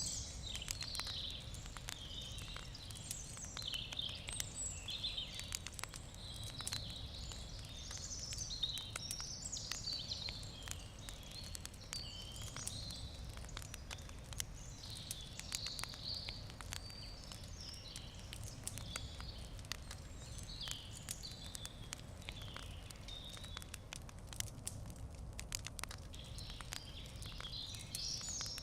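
Wood campfire crackling, with frequent short sharp pops and snaps. Birds chirp and sing in the background throughout.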